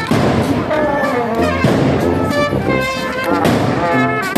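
Marching band with brass playing a tune as it passes in a street procession.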